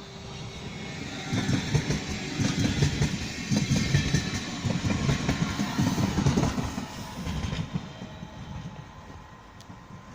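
A train passing, its wheels clattering over rail joints and points. The clatter builds about a second in, stays loud for several seconds, then fades away.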